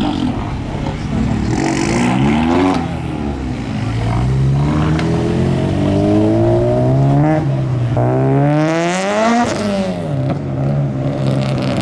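Car engine revving hard and accelerating, its pitch climbing and dropping several times, with the steepest climb and fall near the end.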